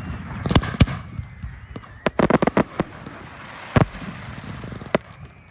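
Display fireworks going off in a series of sharp bangs: two early, a quick cluster of several about two seconds in, then single bangs near four and five seconds.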